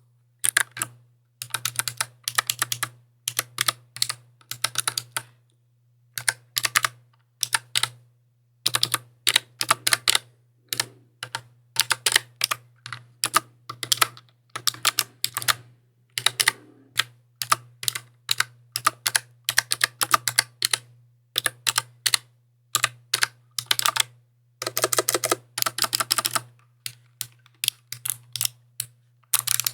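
Mechanical keyboard keys typed in quick runs of clicks, with short pauses between the runs.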